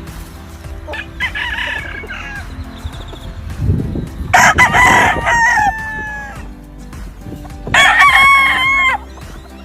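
Gamefowl roosters crowing three times: a fainter crow about a second in, then two loud crows, one about four seconds in and one near the end.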